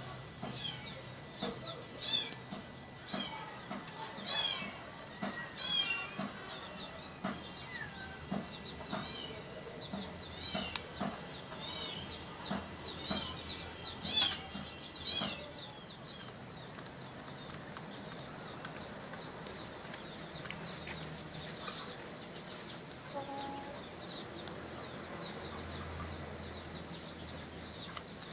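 Birds chirping: short high chirps that come irregularly and are loudest in the first half, then fainter and quicker chirping later on.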